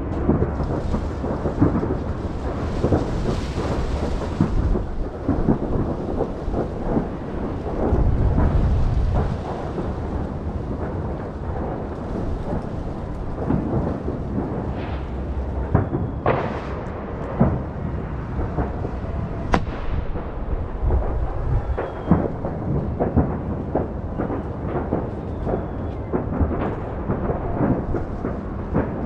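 Fireworks display: a continuous barrage of bangs and crackles over a rolling rumble, with a heavier stretch of low booms about eight seconds in.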